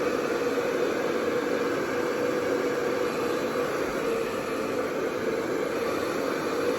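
CloudNine hair dryer running on its highest setting: a steady rush of blown air with a steady motor hum.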